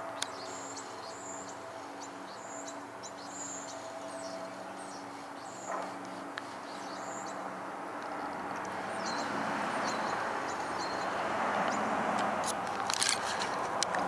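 Outdoor ambience: small birds chirping in quick, short, high calls over a steady low hum. A rushing noise grows louder in the second half, with a few sharp clicks near the end.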